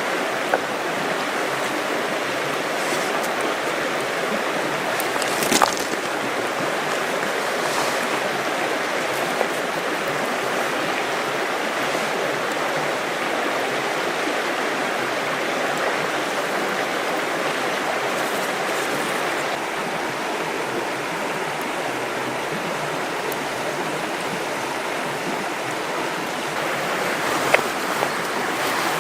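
River water rushing steadily, with a few sharp clicks, the loudest about five and a half seconds in.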